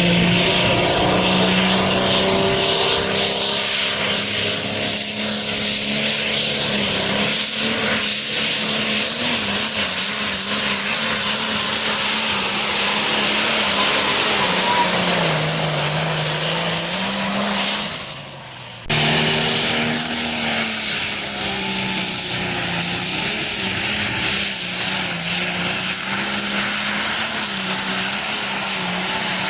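Large diesel engine running under load with a high turbo whine that rises as it spools. The note wavers a little in pitch, then the sound cuts off briefly about two-thirds through and resumes the same way.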